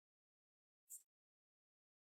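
Near silence, with a single faint, very short click about a second in.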